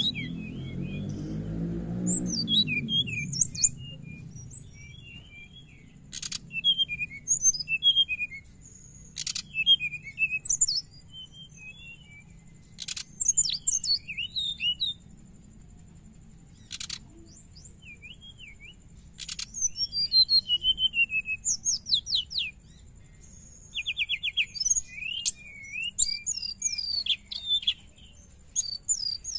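Brown-chested jungle flycatcher (sikatan rimba dada coklat) twittering in quick, high bursts of chirps and trills, separated by short pauses, with a few sharp clicks between phrases. Low music fades out in the first few seconds.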